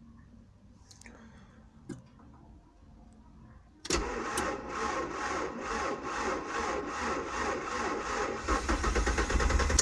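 Starter motor cranking the cold LPG engine of a Linde H30 forklift. It begins suddenly about four seconds in and cranks steadily with a rhythmic pulse for about six seconds, but the engine does not catch.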